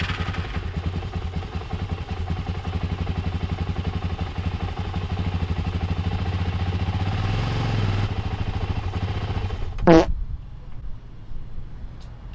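Kawasaki 636 inline-four engine in a Yamaha Raptor 350 quad turning over on its electric starter for about ten seconds with a fast, even pulse, without catching: the battery is too weak to start it. A short loud burst near the end as the cranking stops.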